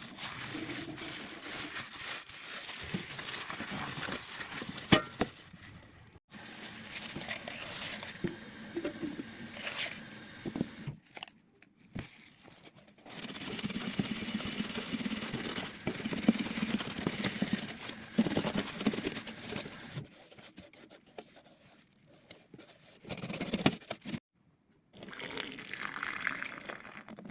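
Washing and scrubbing noises: a rubbing hiss with scattered clicks and knocks, broken off abruptly several times.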